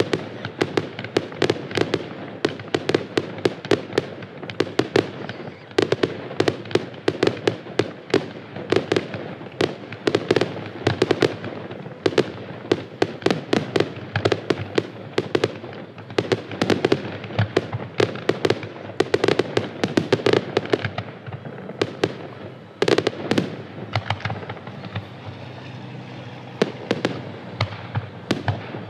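Fireworks going off in a rapid, dense barrage of bangs, many a second, with a few louder booms a little past two-thirds through before the bangs thin out near the end.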